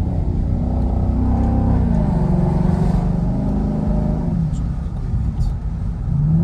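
Ford Mustang GT's 5.0-litre V8 through its Ford Performance exhaust, heard from inside the cabin while driving: the engine note climbs under throttle, drops back a little past the middle, and rises again near the end.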